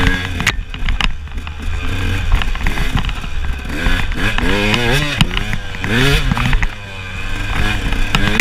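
KTM enduro motorcycle engine revving up and down repeatedly as the bike rides rough, rocky singletrack, with sharp knocks and rattles from the bike over the ground.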